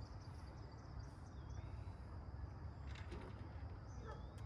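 Insects trilling steadily on one high note, with a short bird chirp about a second and a half in, over a low steady rumble. A faint click sounds about three seconds in.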